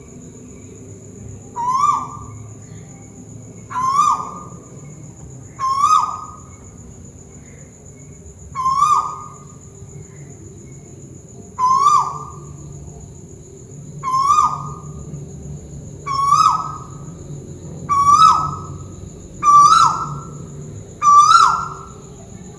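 An owl, the bird called tuwu Malaysia, calling repeatedly: ten short hooting notes, each rising and then dropping in pitch, about one every two seconds, coming a little closer together and louder toward the end. A steady high whine runs underneath.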